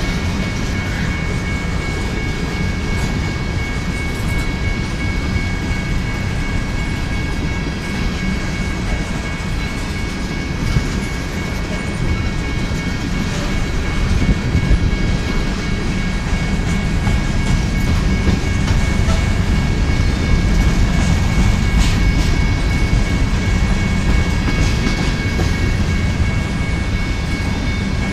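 Covered hopper cars of a freight train rolling past: a steady low rumble of wheels on rail that grows louder about halfway through, with a steady high-pitched whine running through it.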